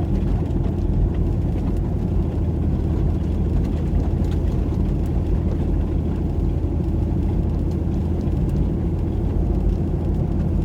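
Steady low rumble of a car's engine and tyres, heard from inside the cabin, while driving on a snow-covered road.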